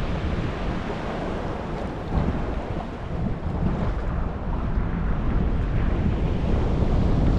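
Wind buffeting the microphone, a steady low rumbling rush, with water moving around the boat beneath it.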